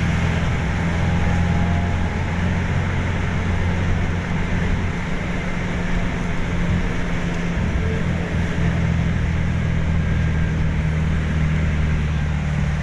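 Steady low drone of a moving vehicle's engine and road noise, heard from inside the vehicle.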